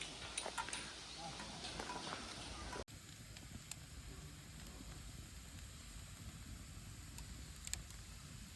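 Faint wood fire crackling: sparse sharp pops over a low steady rumble, with an abrupt cut in the background about three seconds in.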